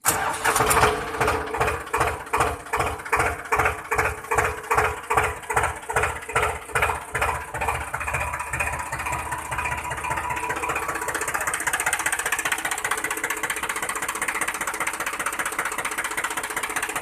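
A mini tractor's motor runs with an even chugging of about three beats a second. Around halfway through, the beats quicken and merge into a steady fast buzz.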